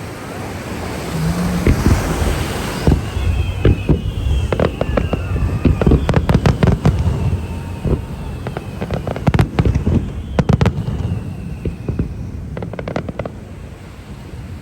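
Fireworks display: a rapid run of sharp bangs and crackles from about two seconds in until near the end, with faint high whistles among them, over wind and surf noise.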